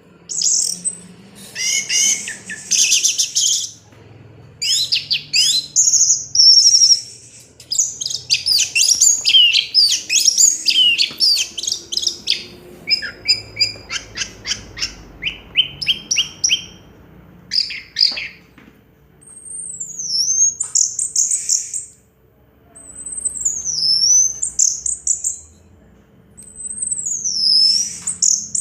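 Orange-headed thrush (anis merah) singing. For the first half it pours out a fast, varied jumble of high chirps and trills. From about two-thirds in it switches to separate phrases, each a loud whistle that swoops down and back up, with short pauses between them.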